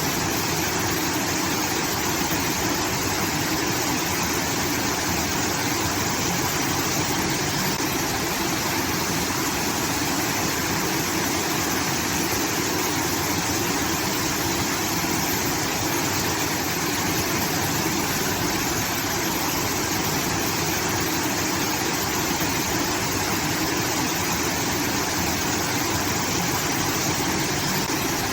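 Water pouring steadily from a rice-field irrigation outlet, a continuous even rush like a small waterfall.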